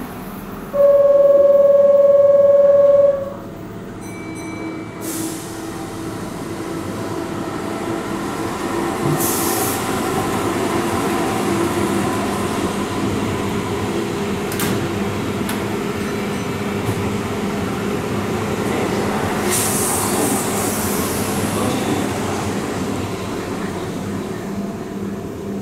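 A single train horn blast lasts about two seconds, the loudest sound here. Then a Keihan 6000 series electric train rolls slowly through the station: a steady rumble and wheel noise build, hold and ease off near the end, with two brief hisses along the way.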